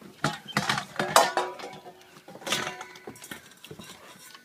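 A puppy knocking and pushing his water bowl around, the bowl clattering in a run of sharp knocks, some of them followed by a brief ringing tone. The loudest knocks come about a second in and again around two and a half seconds.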